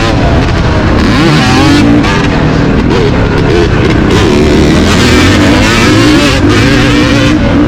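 Dirt bike engine being ridden hard, its pitch rising and falling over and over as the throttle is opened and closed through the gears.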